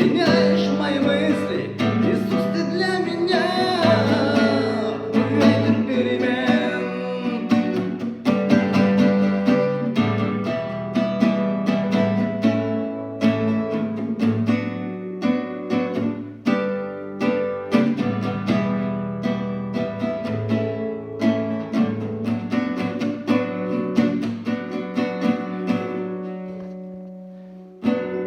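Acoustic guitar played in an instrumental passage of a song, strummed and picked chords in a steady rhythm. It fades down near the end, then starts again.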